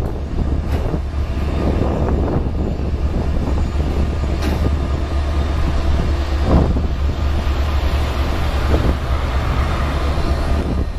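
Freight train rolling past: a steady low rumble with a few sharp clanks from the cars and wheels.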